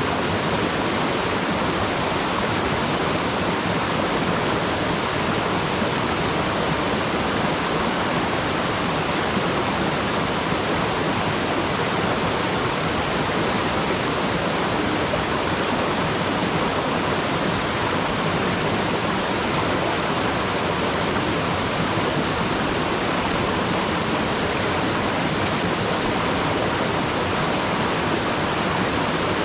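Waterfall cascading steadily, a dense unbroken rushing of falling water.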